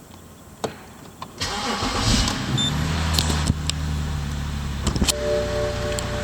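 BMW 528i (F10) N52B30 straight-six starting: a couple of clicks, then the starter cranks about a second and a half in, the engine catches and settles into a steady idle.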